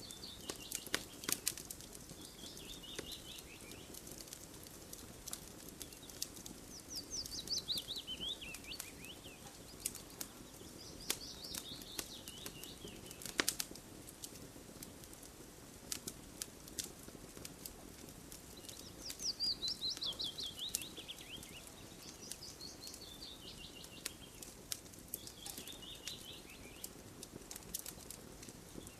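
Wood fire crackling with irregular sharp pops, while a songbird sings repeated short trilled phrases that fall in pitch, one every few seconds.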